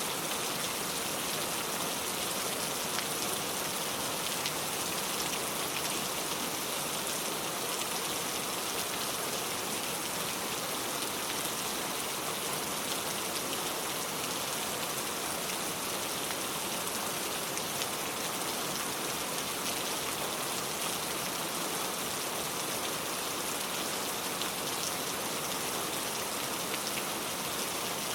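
Steady rain falling: an even wash of many small drop ticks that holds constant without let-up.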